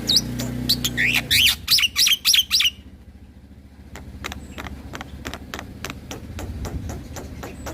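Black-winged myna singing: a rapid run of sharp chips and quick whistled up-and-down notes for the first two and a half seconds, then a short pause and a train of softer clicking notes. A low steady hum sits under the song near the start.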